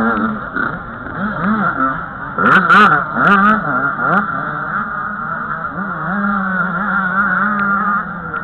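Several 85 cc two-stroke motocross bikes racing, their engines revving up and down over one another. About two and a half seconds in, the sound gets louder for about a second with quick rising revs.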